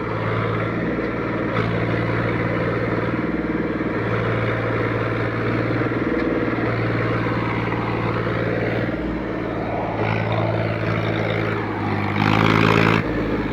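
Tractor's diesel engine running steadily as the tractor tries to work free of deep mud. It revs up briefly near the end.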